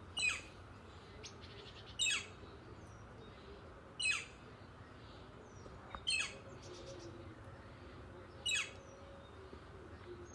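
Northern flicker giving its loud, descending 'kyeer' call five times, about every two seconds. The bird is calling for a mate, as the onlooker takes it.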